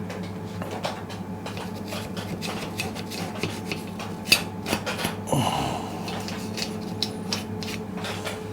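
Irregular scraping and rubbing strokes with sharp clicks from a hand tool working on a Royal Enfield cylinder head, cleaning old gasket off the mating surface.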